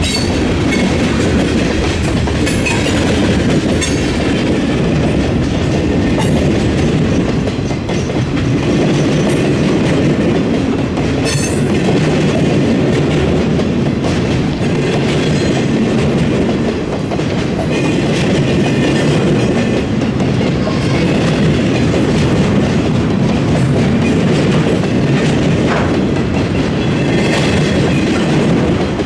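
Freight train cars rolling steadily across a railroad diamond crossing, their wheels clattering over the crossing with a sharp clank now and then.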